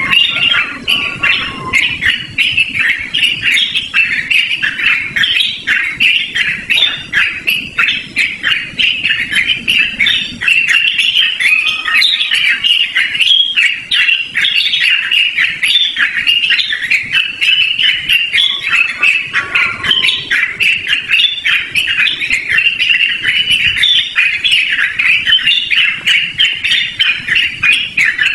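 Yellow-vented bulbul (trucukan) singing loud and clear in a long unbroken run of quick, bubbling warbled notes.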